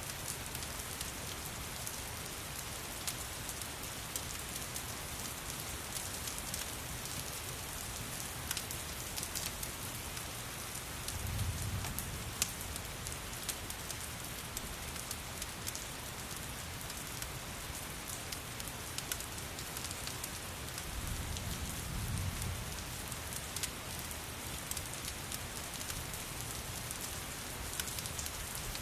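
Steady rain mixed with a crackling fireplace, with scattered sharp crackles over an even hiss. Two short low rumbles come near the middle and again about three-quarters of the way through.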